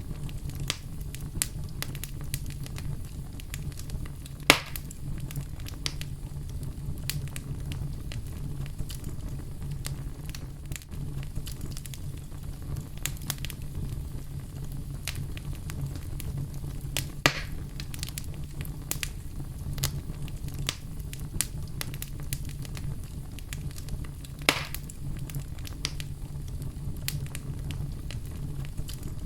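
Wood fire burning in a fireplace, with a steady low rumble of the flames and frequent irregular crackles, and three louder pops: about four and a half seconds in, around seventeen seconds, and near twenty-four seconds.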